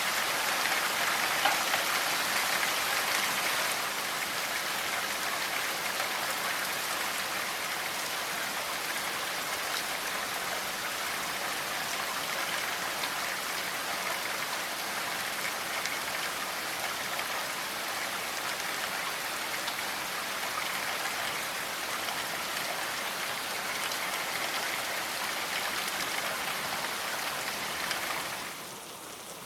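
Steady rainfall, a dense even hiss of many drops. It fades in at the start, is slightly heavier for the first few seconds, then holds steady until it fades down near the end.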